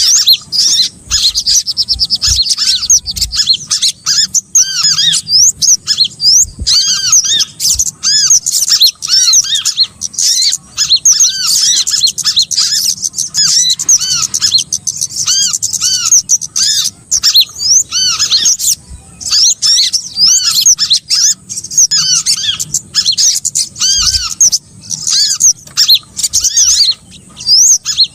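Bird-trapping lure recording: a dense, unbroken chorus of small birds calling over one another, with rapid, high, arching chirps repeated many times a second.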